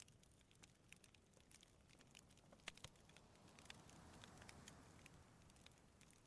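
Faint wood campfire crackling, with irregular sharp pops and snaps from the burning logs. About halfway through, a soft swell of sea waves washing on the shore rises and fades.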